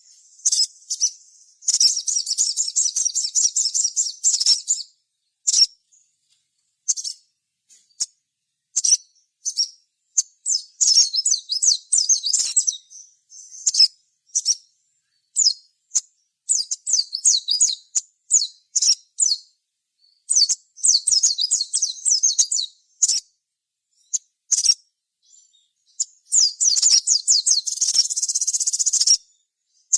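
A sogok ontong (sogon), a spiderhunter, singing hard: bursts of fast, high chattering trills a few seconds long, broken up by single sharp chips, with the loudest and densest burst near the end.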